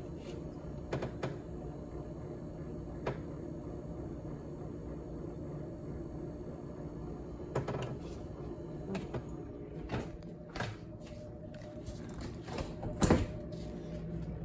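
GE top-freezer refrigerator's freezer fan and cooling system running with a steady low hum, with scattered clicks and knocks, the loudest near the end.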